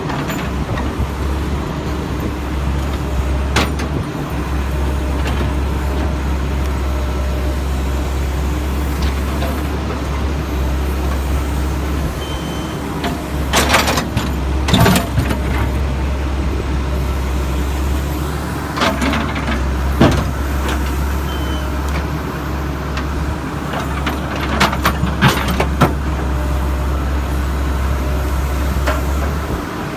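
Backhoe's diesel engine running steadily, with scattered bangs and clatters as broken concrete is handled and loaded into a dump truck; the impacts come in clusters about halfway through and again later.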